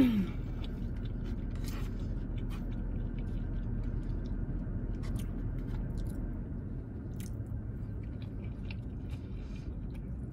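Close-up chewing of a mouthful of a Greek bowl (falafel, rice and quinoa, greens), with scattered small wet mouth clicks over a steady low hum. It opens with a short pleased "mm" that falls in pitch.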